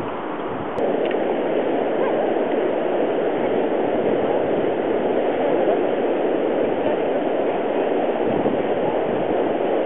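Colorado River water rushing steadily as an even roar, which gets louder about a second in.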